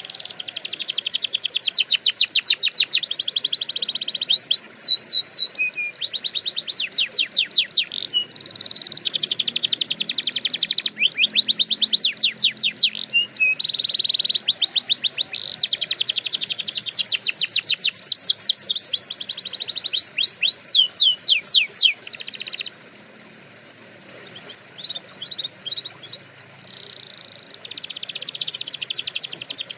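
Domestic canary singing: long, rapid trills of repeated high notes, phrase after phrase, with a quieter stretch of scattered notes about three-quarters of the way through before the trills resume.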